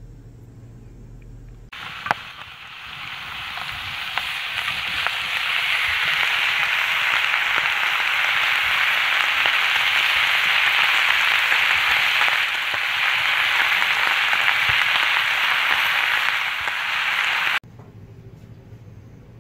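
Slices of meat and green stalks sizzling on a round black griddle. The frying grows louder over the first few seconds, holds steady, then cuts off suddenly near the end, leaving a low steady hum.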